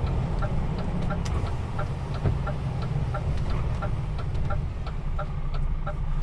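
DAF XF truck cab: the turn-signal indicator ticking about three times a second over the steady low rumble of the diesel engine and road.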